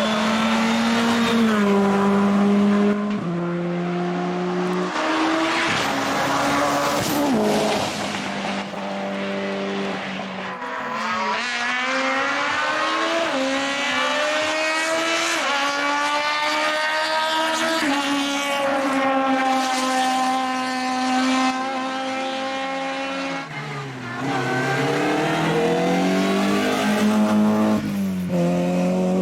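Hillclimb race car engine at full throttle, pitch climbing and dropping sharply as the driver shifts through the gears. About 23 seconds in the revs fall steeply under braking and downshifts, then climb again on acceleration.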